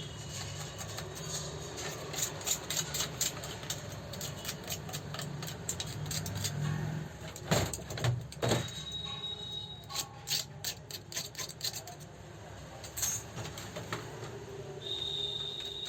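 Irregular light clicks and taps, two louder ones near the middle, over a low steady hum, with a thin high tone heard briefly and again near the end.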